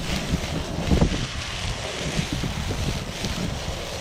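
Wind buffeting the microphone over a campfire where kupaty sausages are grilling, their dripping fat hissing on the flames. There is a louder knock about a second in.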